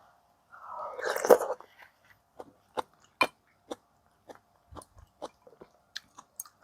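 Close-miked eating of spicy catfish stew: a loud, noisy burst about a second in, then chewing with soft, irregular wet clicks.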